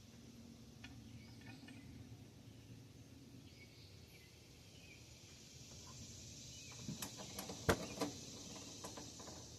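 Quiet hand work on an engine: a few light clicks and taps, the sharpest about three quarters of the way in, as bolts are set into the 5.3 LS engine's valley cover.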